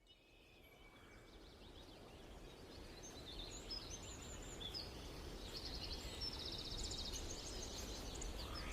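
Outdoor ambience fading in, with faint high chirps and a quick trill of small birds over a steady background hiss.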